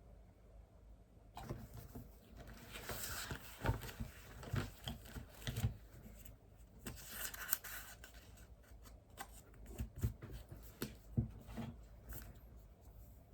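Paper being handled at a study desk: irregular rustling and scratching of sheets, with small knocks, busiest in two spells about three and seven seconds in.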